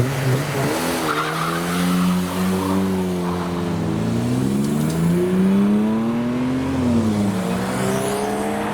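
A car engine pulling away and accelerating hard, its revs climbing and dropping back several times, with a clear drop about seven seconds in and another climb near the end.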